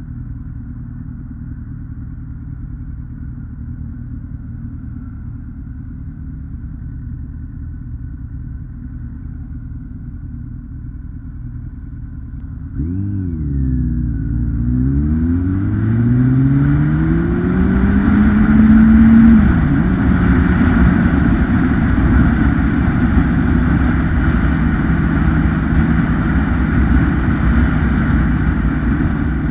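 2008 Kawasaki ZX-10R's 998cc inline-four engine heard on the move: a steady low rumble, then about halfway through the engine note jumps up and climbs hard under acceleration, drops at a gear change, and settles to a louder steady run with wind rush.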